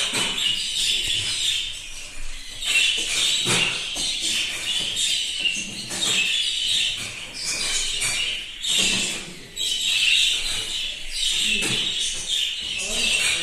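Many budgerigars chattering and warbling together, a dense continuous twittering with constant short calls overlapping.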